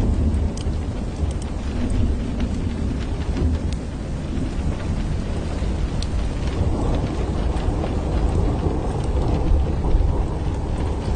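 Steady rain, with scattered drops ticking against window glass, over a continuous low rumble of distant thunder.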